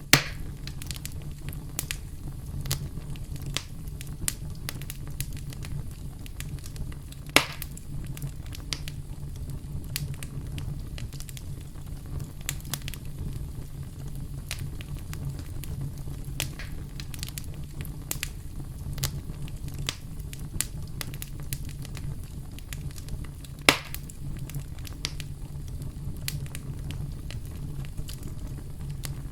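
Campfire crackling, with frequent small snaps over a steady low rumble of the flames. Three louder pops stand out: one right at the start, one about a quarter of the way through and one about four-fifths through.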